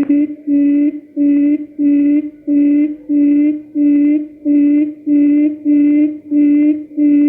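Quail call lure recording: one low hooting note repeated evenly about twice a second, played on a loop to draw quail in for trapping.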